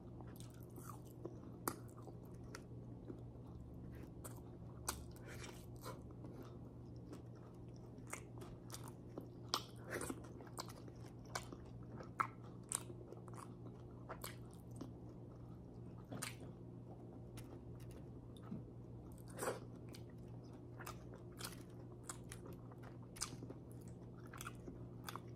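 Close-up chewing and biting of grilled pork chop: irregular short crunchy clicks and mouth smacks, over a steady low hum.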